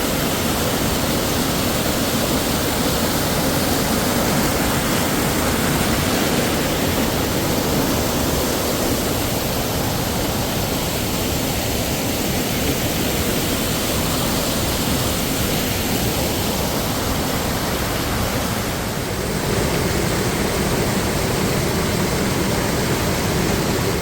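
Waterfall running full after rain: a steady, loud rush of falling water.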